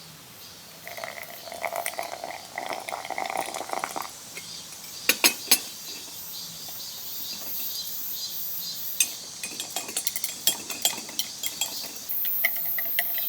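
Dishes, glass and utensils clinking in a series of handling sounds, with three sharp loud clicks a little after five seconds in and a steady hiss starting near the end.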